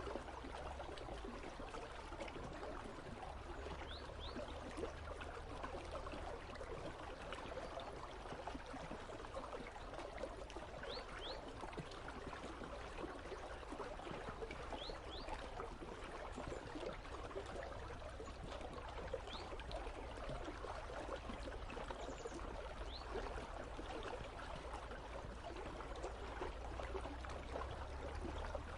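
River water flowing steadily, an even running rush of a stream. A few faint, short high chirps come through now and then.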